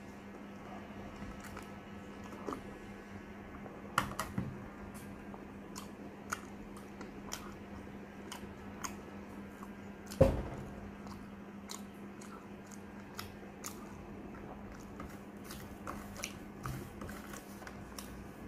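Close-up chewing of soft cooked sweet potato eaten by hand, with many short mouth clicks. A louder single knock comes about ten seconds in, over a steady low hum.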